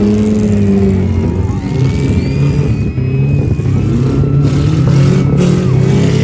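Several demolition-derby truck engines running and revving at once, their pitch rising and falling unevenly.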